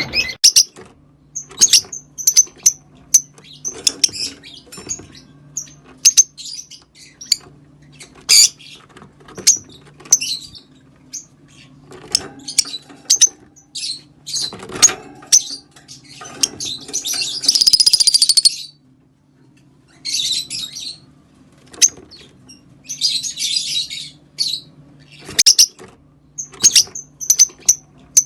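Rosy-faced lovebirds chirping: rapid, sharp, high calls in irregular clusters, with two longer, harsh bursts of chatter, one just past the middle and one a few seconds later. A faint steady hum runs underneath.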